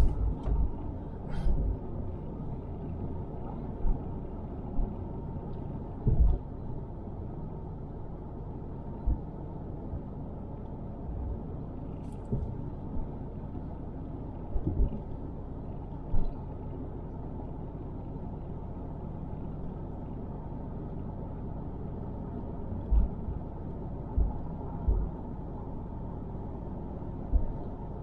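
Car driving on a road, heard from inside the cabin: a steady low rumble of tyres and engine, with a number of short low thumps scattered through it.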